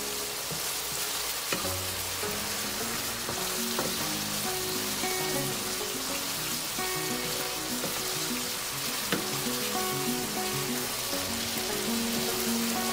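A yogurt and spice masala sizzles steadily as it fries in a frying pan, stirred with a wooden spoon that clicks against the pan a few times. A soft melody with changing notes plays underneath.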